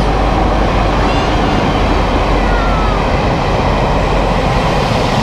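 Taiwan Railway Chu-Kuang express, a locomotive hauling orange coaches, running past along an underground station platform, not fast. It makes a loud, steady rumble of wheels on rails with a faint high wheel squeal about two seconds in.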